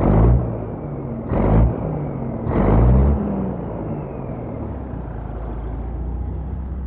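Caterpillar 3406B diesel truck engine revved three times in quick succession, each rev dropping back, the last one the longest, then settling to a steady idle. The owner says it sounds good.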